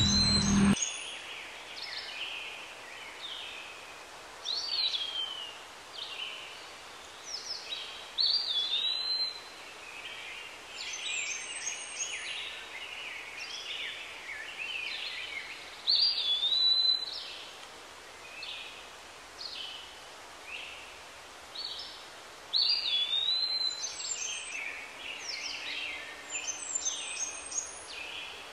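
Several small birds calling and chirping over a faint steady hiss of outdoor background noise. One bird repeats a curved whistled note, rising then falling, every few seconds.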